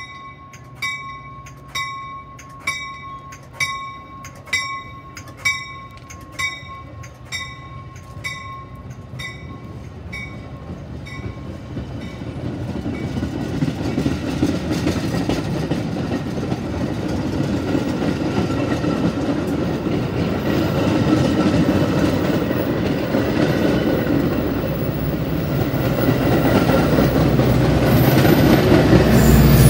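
A bell dings about once a second, with a clear ringing tone, and dies away by about ten seconds in. Then a Metra commuter train's bilevel coaches and diesel locomotive run past on the rails, the noise building steadily to its loudest near the end.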